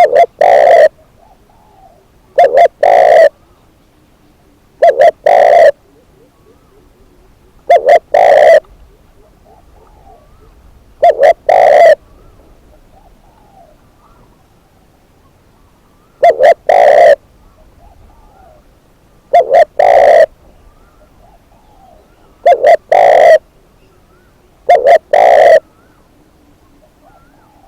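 Decoy spotted dove cooing loud and close: nine short phrases of two or three notes each, repeated every few seconds, calling to lure wild doves. Fainter bird calls can be heard between the phrases.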